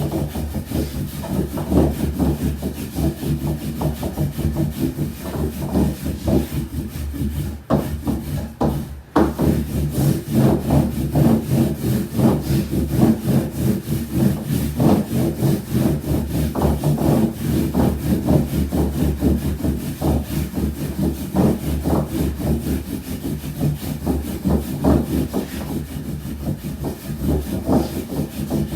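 Wooden rolling pin rolling soba dough out on a wooden board, a continuous rubbing and scraping of wood on dough with quick repeated strokes. The strokes break off briefly about a third of the way in, then resume.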